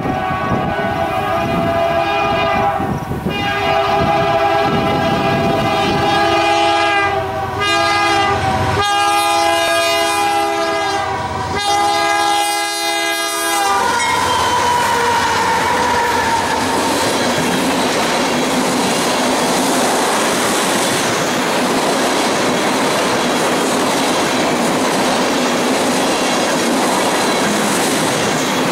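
Diesel freight locomotive's horn sounding a chord of several tones in long blasts with one short blast, then cutting off about fourteen seconds in. After that the passing train's steady rumble and the clickety-clack of wheels on the rails continue.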